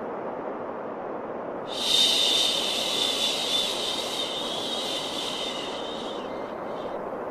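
A long, drawn-out 'shhh' shushing sound for soothing a baby, over a steady whooshing white-noise bed. The shush starts about two seconds in, holds for roughly four and a half seconds, then fades away.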